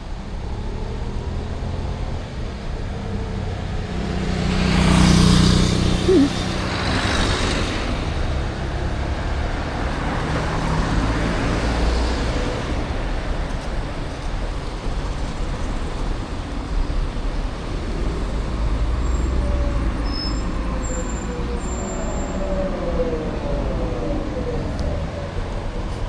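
City road traffic heard from a moving bicycle: a steady low rumble, with a vehicle passing loud and close about five seconds in and another around twelve seconds in. Near the end a passing engine's note bends in pitch.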